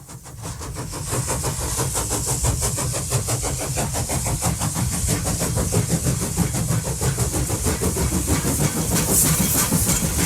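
Railway locomotive running, with a steady hiss over fast, even pulsing, fading in from silence over the first second or so.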